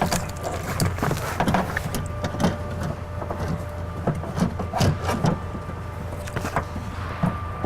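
Irregular knocks and clicks of a power window regulator being handled and fitted inside a car door, over a steady low hum.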